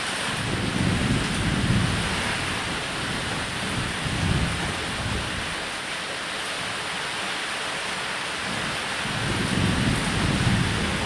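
Steady heavy rain falling on a roof, with low rolling thunder rumbling three times: about a second in, again around four seconds, and once more near the end.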